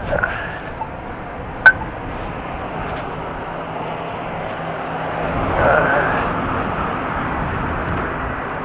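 Traffic noise and wind rushing over the microphone during a bicycle ride, with a single sharp click a little under two seconds in and the traffic swelling louder about six seconds in.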